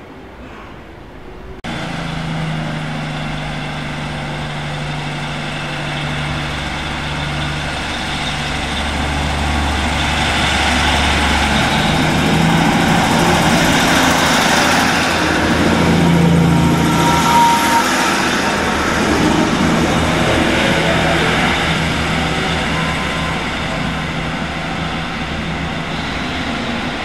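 Diesel multiple unit passenger train at a station platform, its engine running with a steady low hum that starts suddenly about two seconds in and grows louder as the unit runs close past, with a brief high squeal near the middle before it eases off.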